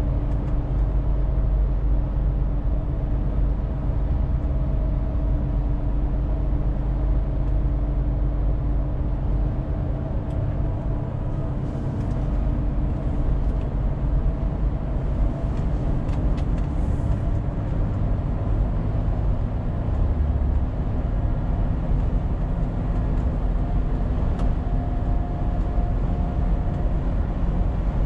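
Scania truck on the move: a steady low engine drone with road noise, the engine note shifting slightly in pitch around the middle and again near the end.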